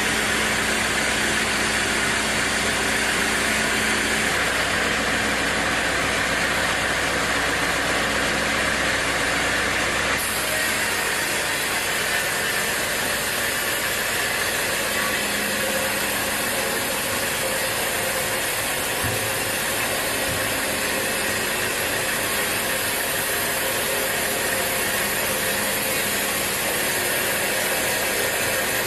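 Sawmill saw running: a steady, dense mechanical noise without pauses, which shifts slightly about ten seconds in.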